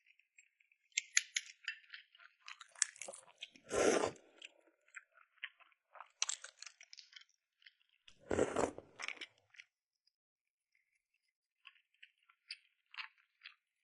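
Close-miked eating: crisp crunching and small clicks of food being bitten and handled, with two louder, fuller bursts about four and eight and a half seconds in.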